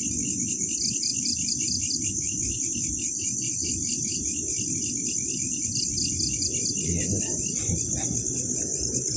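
Night chorus of crickets and other insects: a steady high trill with chirps pulsing over and over, over a low rumble.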